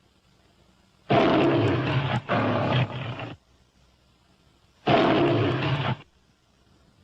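Sweetums, the giant Muppet monster, roaring three times in a deep voice, each roar about a second long: two close together, then a third about two seconds later.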